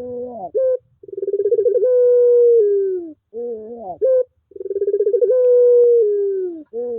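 Puter pelung dove (a Barbary dove breed) cooing: two long drawn-out coos that start with a pulsing note and slide down in pitch at the end, each one coming after a few short rising notes.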